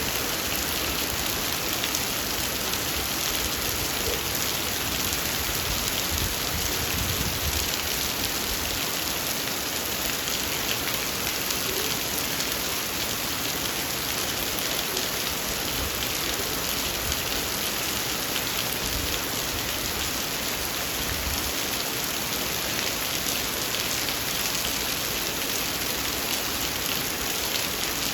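Heavy rain falling steadily, a continuous hiss of drops striking surfaces.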